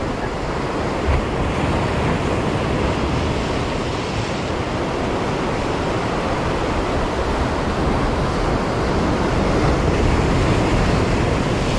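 Sea surf breaking and washing against a concrete tetrapod breakwater: a steady rushing wash that swells a little in the second half.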